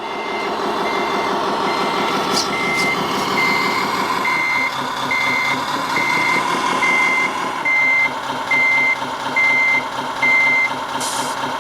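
Tamiya Scania R500 model truck's sound unit playing its reversing beeper, a steady beep about every 0.7 seconds that stops about a second before the end, over its simulated Scania V8 engine running. A short hiss comes near the end.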